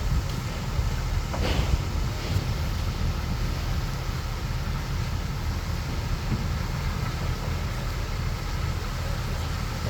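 Bulldozer's diesel engine running steadily under work, a deep low rumble, with one brief clank about a second and a half in.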